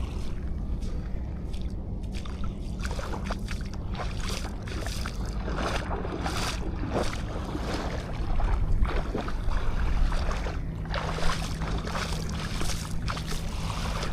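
Sea waves washing and breaking on a sandy shore in irregular swells, with wind rumbling on the microphone. A faint steady low hum runs underneath.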